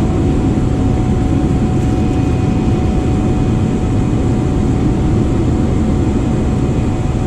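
Jet airliner's engines running steadily, heard from inside the passenger cabin: a deep, even rumble with a thin steady whine above it.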